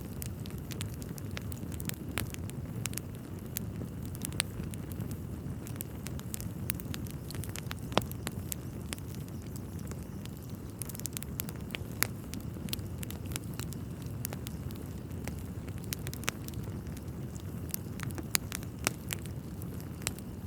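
Wood fire burning in a fireplace: a steady low rumble of flames with irregular crackles and sharp pops of burning logs, the loudest pops about 8 and 12 seconds in.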